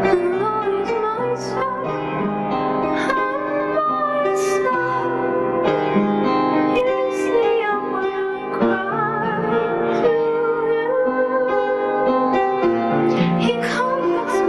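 Christian worship song: a woman singing over piano accompaniment, with a wavering vibrato on held notes.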